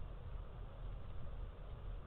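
Steady outdoor background noise: a constant low rumble with a faint even hiss, and no distinct calls or knocks.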